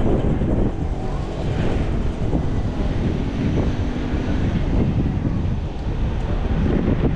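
Wind rumbling steadily over the microphone of a camera riding along on a bicycle, with traffic-like noise underneath.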